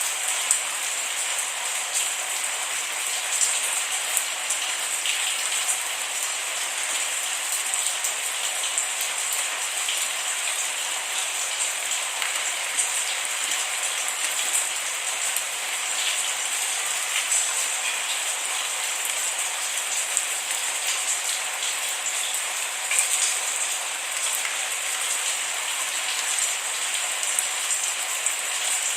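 Steady rain falling, a continuous high hiss with many small, close drop taps on a surface; no thunder.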